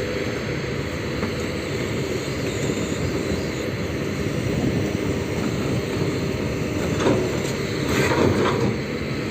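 Heavy diesel machinery, an excavator, running steadily with a low rumble, with a few short metallic knocks about seven and eight seconds in.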